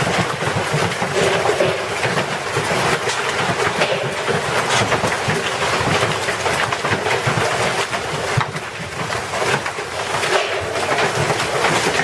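Storm noise: a dense, steady clatter of many small impacts over a continuous rushing hiss.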